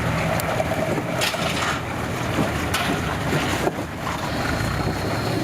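An off-road 4x4's engine running at a steady speed, with a few scattered knocks and rattles.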